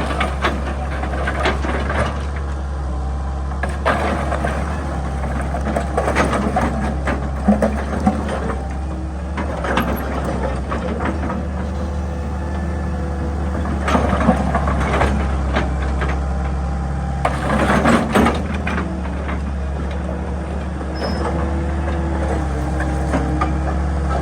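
Excavator diesel engine running steadily under a wavering whine, with repeated bouts of scraping and knocking as the bucket digs into earth and rock.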